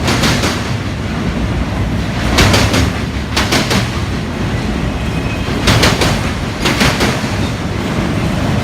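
Union Pacific autorack freight cars rolling past: a steady rumble of wheels on rail, with clusters of sharp clicks as wheel sets cross rail joints, coming in pairs about a second apart every few seconds.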